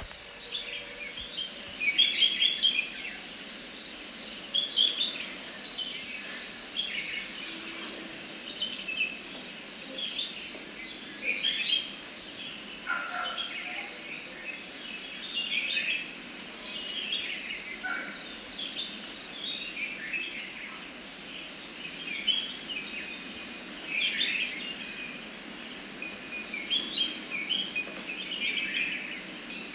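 Birds chirping: many short, irregular calls, some in quick runs, over a steady background hiss.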